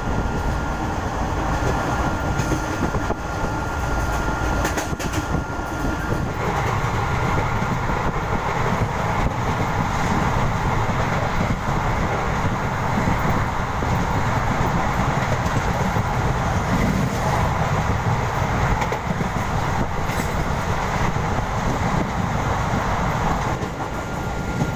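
Moving passenger train, a steady running noise of wheels and carriages on the rails. It grows louder about six seconds in and eases again near the end.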